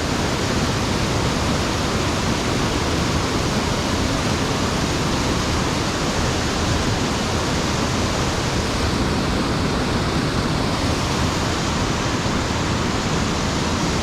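Mountain stream rushing steadily, its water tumbling over rocks and falling over a sabo dam, an unbroken roar of white water.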